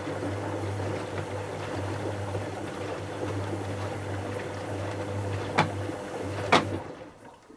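Dyson Contrarotator CR01 washing machine moving water: a steady electrical hum with a rushing water noise over it. Two sharp clicks come near the end, and the hum cuts off just after.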